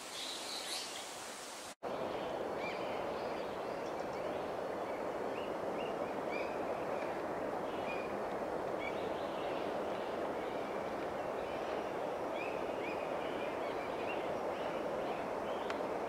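Small birds giving short, repeated chirps over a steady rushing outdoor background noise. The sound cuts out abruptly for a moment about two seconds in.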